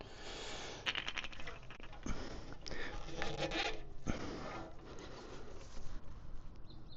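Hands handling old fuel-system parts at close range: irregular rustling and scraping with a few sharp clicks and knocks.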